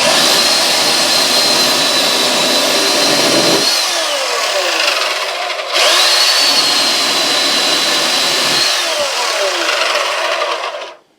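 Electric chainsaw cutting small wood in two runs. Each run has a steady high motor whine that winds down with a falling pitch when the trigger is let go, the second starting with a rising whine just before six seconds in.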